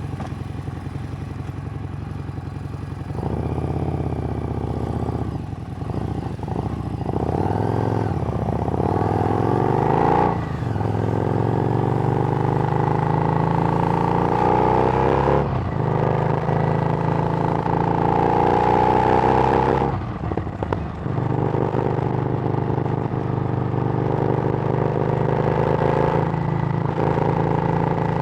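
Harley-Davidson Street Rod's 750 cc V-twin through a Screamin' Eagle exhaust, pulling away and accelerating through the gears. The engine note climbs and drops at upshifts about ten, fifteen and twenty seconds in, then settles into a steady cruise.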